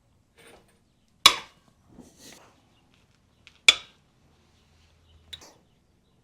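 Two sharp metallic cracks, about two and a half seconds apart, each with a brief ring, and faint clinks between them: a hand wrench breaking bolts loose on a Ford 300 inline-six, an eighth of a turn at a time.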